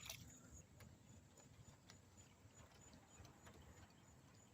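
Near silence, with a faint low rumble and scattered faint, irregular ticks.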